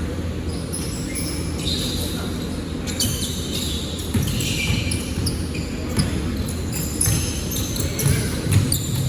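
Basketball game: the ball bouncing on the court among short sharp noises and a steady background din, with voices in it.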